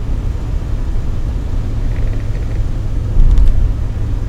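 Steady low rumble of a car driving along a road, heard from inside the cabin, briefly louder about three seconds in.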